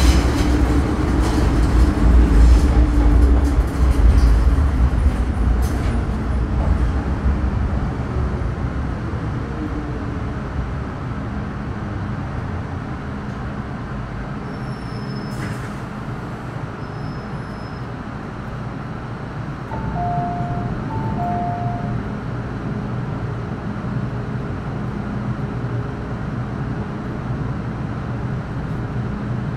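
Metro Cammell M-Train electric multiple unit with GEC GTO chopper traction braking into a station: the running rumble and the chopper's falling whine die away over the first several seconds. The train then stands with a steady hum of its onboard equipment. About two-thirds of the way through there are a few short electronic beeps at two pitches.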